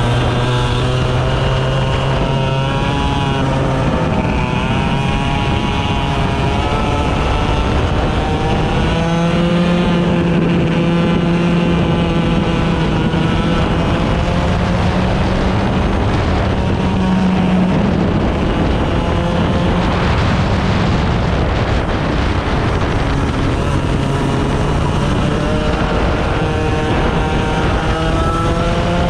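100cc racing engine running hard, its pitch climbing and dropping again and again as the revs rise and fall, with wind noise on the microphone.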